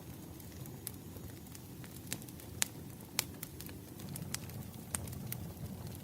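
Burning firewood crackling: a steady low rush of flames with irregular sharp pops and snaps, two of them louder a little before the middle.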